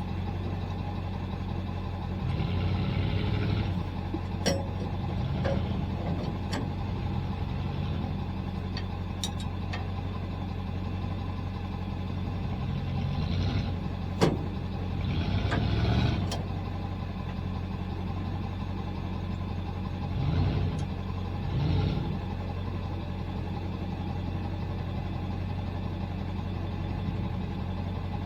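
Pickup truck engine idling steadily, with several short swells of louder engine and a few sharp clicks along the way.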